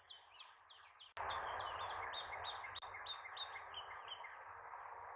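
A small bird calling a rapid series of short, down-slurred chirps, about three a second, over steady outdoor background noise. The background noise gets louder about a second in.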